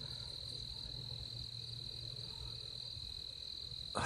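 Steady, high-pitched chorus of night insects, with a faint low hum underneath.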